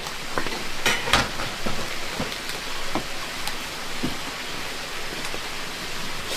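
Heavy rain falling steadily, with a few sharp taps and knocks over it, the strongest about a second in.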